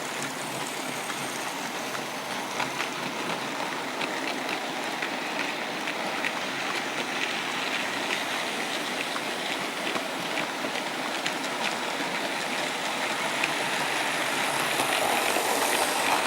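OO gauge model train running on the layout: a steady rushing run with light, irregular clicks of wheels on the track, growing slightly louder near the end.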